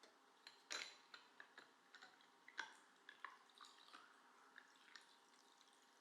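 Faint, scattered small clicks and taps, about a dozen at irregular intervals, the strongest a little under a second in and about two and a half seconds in.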